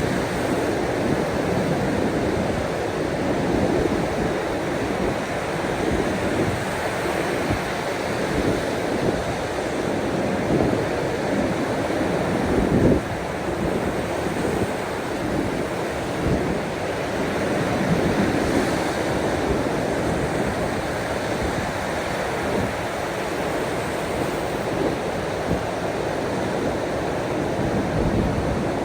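Ocean surf: a steady rush of waves washing in, slowly swelling and easing, with one brief louder surge about halfway through.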